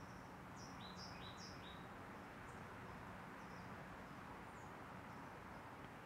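Birds chirping faintly over steady background noise, with three quick falling chirps in a row about half a second in and scattered single chirps after.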